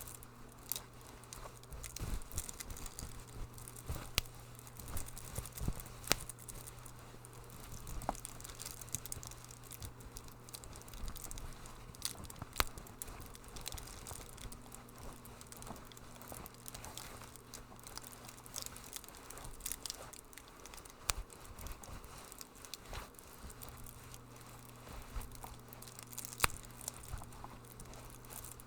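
Wood fire crackling in a fireplace: irregular sharp pops and snaps over a soft hiss, with a steady low hum underneath that drops out for a few seconds past the middle.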